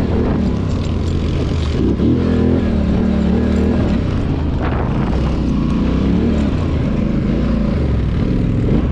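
ATV engine running steadily under way, its pitch rising and falling with the throttle.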